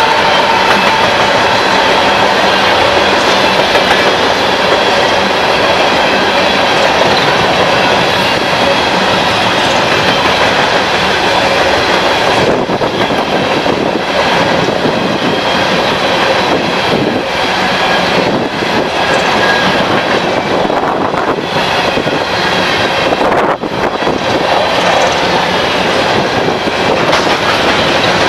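A train running past at close range: a steady loud rumble of wheels on rail with clickety-clack over the joints and faint high wheel squeal.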